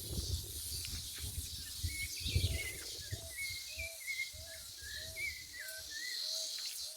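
Insects buzzing steadily with birds calling: a warbling song, and a short low note repeated about every half second from a few seconds in. An uneven low rumble runs underneath.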